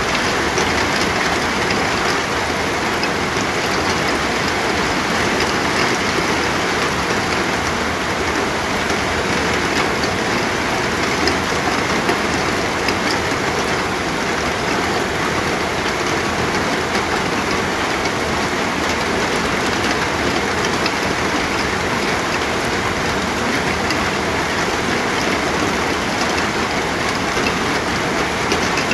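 Steady, heavy rain falling, an even dense hiss with fine drop patter.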